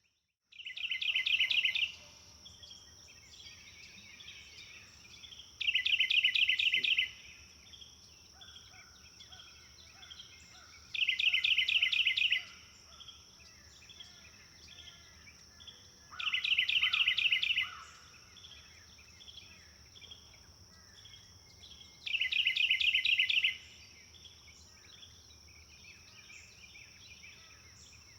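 A songbird repeats the same short, rapid trilled phrase five times, about every five seconds, with fainter chirps between. Under it runs a steady high-pitched buzz.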